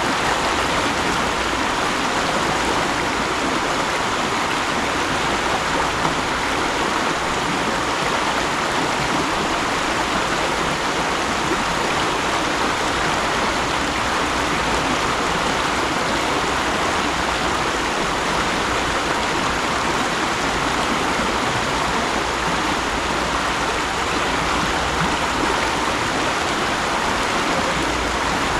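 A mountain stream rushing and splashing steadily over rocks.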